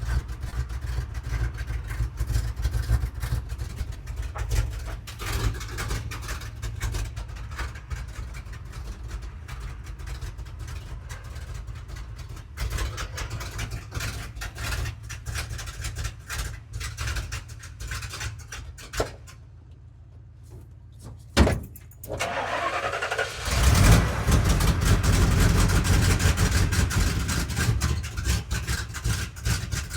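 Truck engine, the Road Runner's V8 in the camper truck, running with a steady low rumble. It drops away at about 19 seconds, is cranked with a rising whine, and catches again at about 23 seconds, running louder to the end.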